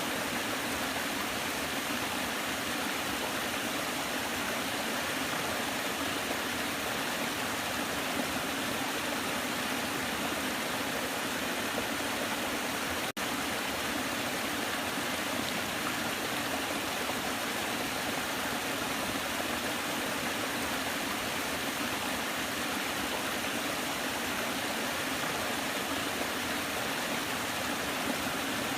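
Waterfall, water rushing in a steady, unbroken hiss, with one very brief dip about halfway through.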